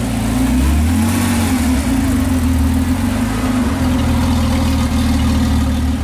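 Lykan HyperSport's twin-turbo flat-six engine idling steadily, with a slight dip and rise in revs about a second in.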